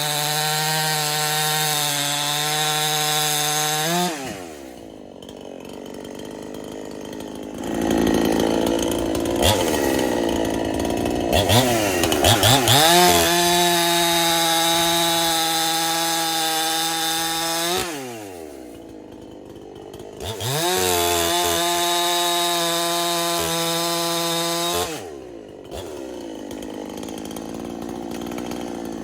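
Husqvarna clone two-stroke chainsaw revving to a steady high-pitched wide-open scream, dropping back to a low idle about four, eighteen and twenty-five seconds in. In the middle there are several seconds where the pitch wavers up and down and the sound turns rougher before it climbs back to full throttle.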